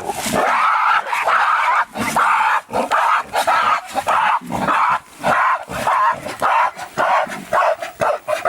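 A dog barking and yapping over and over, about two barks a second in an irregular run.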